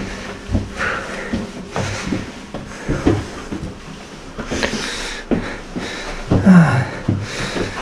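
Hard breathing and puffing from people climbing tower stairs, with footsteps and knocks on the steps and a short falling moan about six and a half seconds in.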